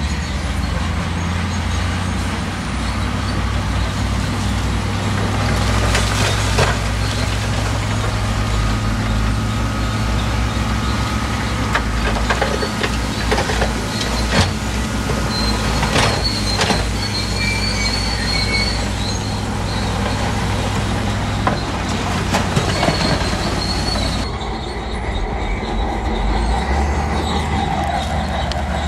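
Heavy diesel engine of a crawler bulldozer running steadily under load, with scattered metallic clanks and knocks and high squeals from its steel tracks and the rock being shoved.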